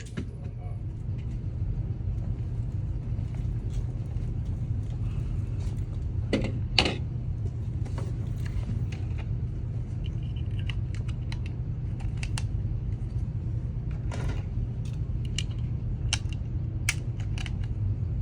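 A steady low rumble with scattered light clicks and knocks; the loudest is a pair of sharp knocks about six and a half seconds in.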